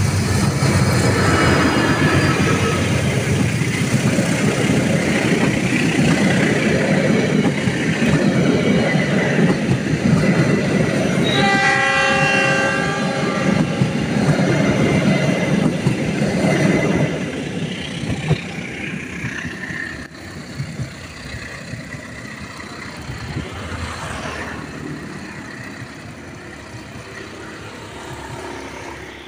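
A diesel-hauled passenger train passes close by, the locomotive and then the coaches rolling loudly over the rails. About eleven seconds in comes one steady horn blast lasting about two and a half seconds. From about seventeen seconds the sound fades as the train moves away.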